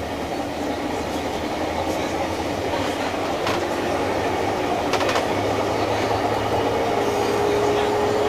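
JR East 201 series thyristor-chopper electric train heard from inside the passenger car, running with a steady rumble and occasional sharp rail-joint clicks. The sound grows slightly louder, and a faint motor tone rises near the end.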